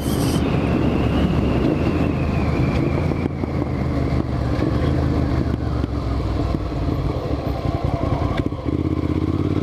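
Motorcycle engine running under way, with wind noise on the rider's mic; a high whine falls slowly in pitch over the first few seconds, and near the end the engine note starts to rise as the bike accelerates.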